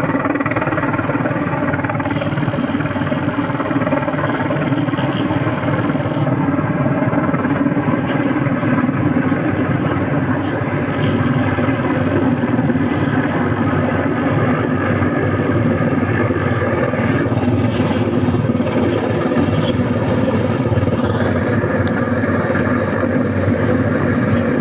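Mi-26 heavy-lift helicopter running, its rotor and twin turbine engines making a loud, steady drone.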